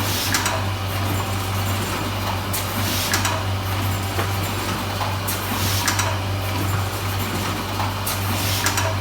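Semi-automatic rigid box wrapping machine running with a steady hum, and a short burst of sound repeating about every three seconds as it works through one box per cycle.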